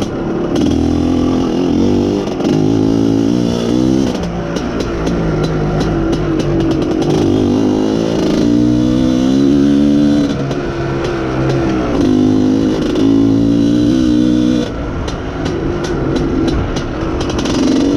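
IZh Planeta Sport's single-cylinder two-stroke engine under way, its revs rising and falling with several gear changes and a long climb in pitch about halfway through. The rider says the mixture goes lean as soon as the throttle is opened wide.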